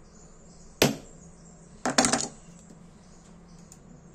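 Firm blows struck on the Dupont L2 lighter during its gas-cap repair: one sharp knock about a second in, then a quick run of knocks about a second later.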